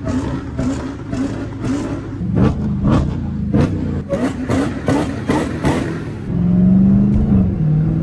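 Dodge Challenger's supercharged 6.2-litre Hemi V8 pulling under throttle. It is uneven at first, then louder and settling into a steady drone about six seconds in.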